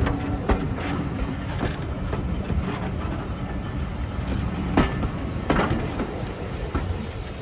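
Train running on the line: a steady low rumble with irregular sharp clanks and knocks, the loudest about five seconds in.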